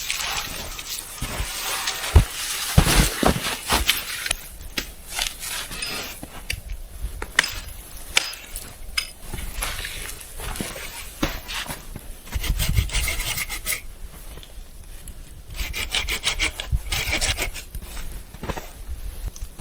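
Irregular scraping and rasping strokes on wood, with scattered clicks and knocks.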